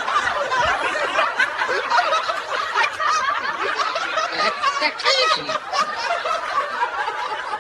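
People laughing hard together, a dense unbroken run of snickers and chuckles with no words.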